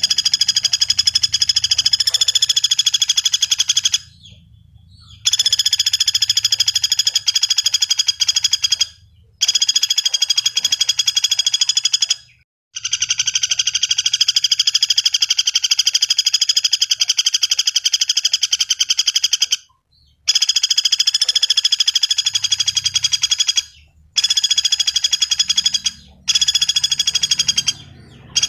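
Common flameback woodpecker (pelatuk bawang) giving long, rapid trilling rattles, repeated in bouts of a few seconds with short breaks between them.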